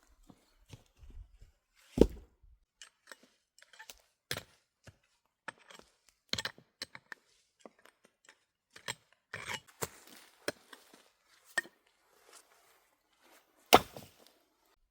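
Irregular knocks and clicks from hands-on work with tools or materials, with two louder knocks, one about two seconds in and one near the end.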